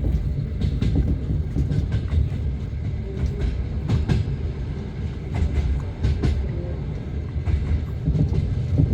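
Passenger train running on the rails, heard from inside the carriage: a steady low rumble of the wheels and bogies, with irregular clacks as the wheels cross rail joints.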